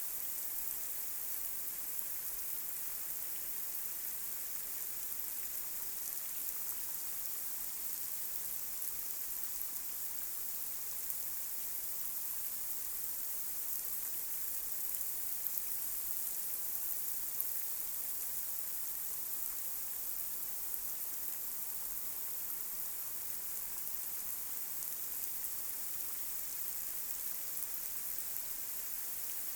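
Light rain falling on a street: a steady hiss, strongest in the treble, with the odd faint tick of a drop.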